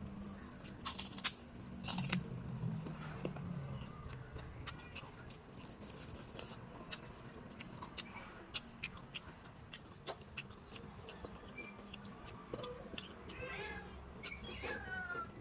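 Eating sounds: scattered clicks and smacks of chewing and handling food, with a low hum in the first few seconds and a few short, wavering high-pitched calls near the end.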